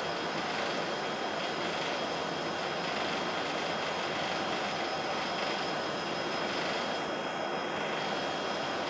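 Passenger express train running, heard from on board: a steady rushing rumble with a faint steady high whine over it.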